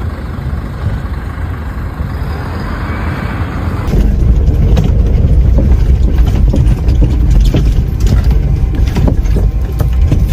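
Road vehicles running outdoors under a steady noisy rumble, which jumps abruptly to a louder, heavier low rumble with scattered clicks about four seconds in.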